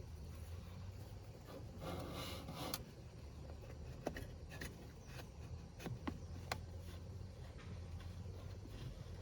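A short scrape about two seconds in, then a handful of sharp light clicks and taps from hand work, over a low steady hum.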